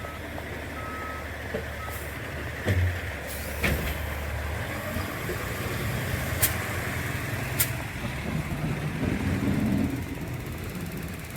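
A heavy truck's engine running with its reversing beeper sounding, the beeps stopping about a second and a half in. A few sharp clicks or knocks follow later over the steady engine rumble.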